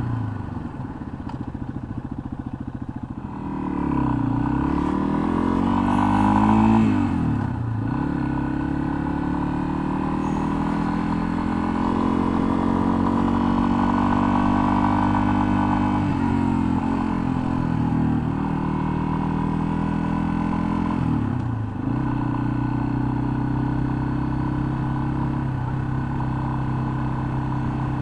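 Single-cylinder engine of a 2021 Yamaha XT250 dual-sport motorcycle running under way. It revs up and drops back in pitch as it shifts, around 4, 7.5 and 21 seconds in, and holds a steady cruising note in between.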